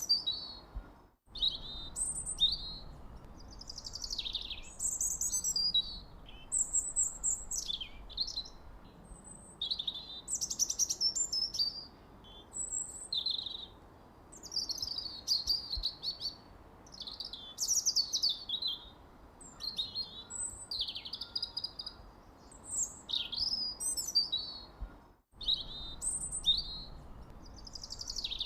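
Songbirds chirping and singing without pause: a steady run of short, high, warbling and sweeping phrases, one overlapping the next. The sound drops out completely for a split second about a second in and again near the end, like a splice between recordings.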